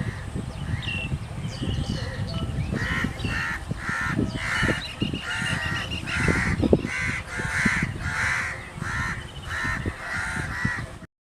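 Crows cawing over and over, short harsh calls at about two a second, over a steady low rumble.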